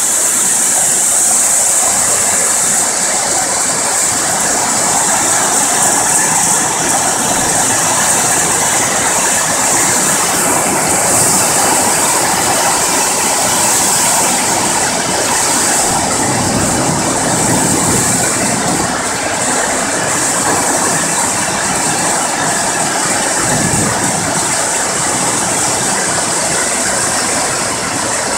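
Hailstones pelting down hard in a dense, unbroken rattle of countless small impacts.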